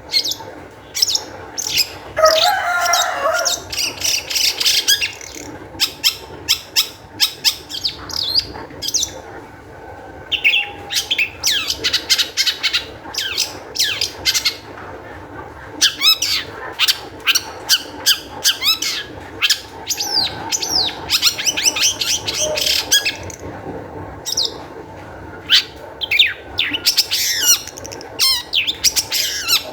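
Long-tailed shrike singing in a highly excited state: bursts of many quick, sharp chattering notes and whistles, broken by short pauses.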